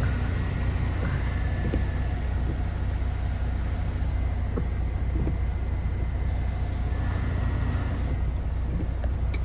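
Semi-truck's diesel engine running with a steady low drone.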